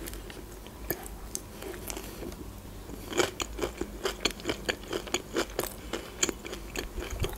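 A person chewing a mouthful of food. A few soft mouth clicks at first, then a quick run of crisp chewing clicks from about three seconds in.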